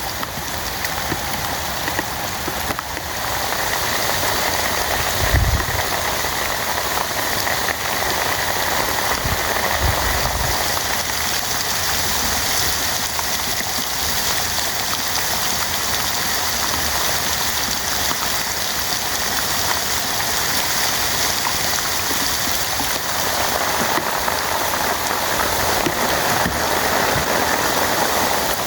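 Heavy rain falling steadily, getting a little louder about four seconds in, with two short low thuds at about five and ten seconds.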